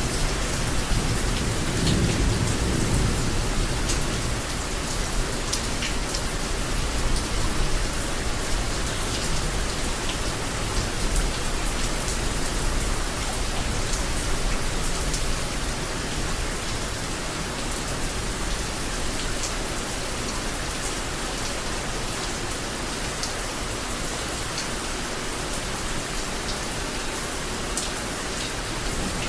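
Heavy rain falling steadily, with scattered drops ticking, and a low rumble of thunder in the first few seconds that returns near the end.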